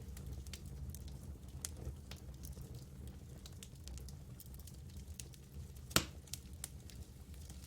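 Campfire burning, wood crackling and popping in scattered sharp clicks over a low steady rumble, with one loud pop about six seconds in.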